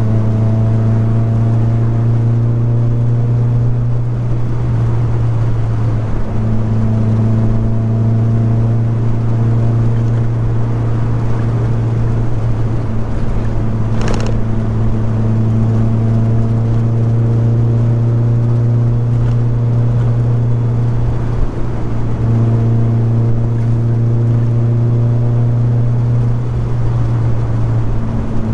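A car engine running at a steady, even pitch while cruising, a low drone. A single brief click about halfway through.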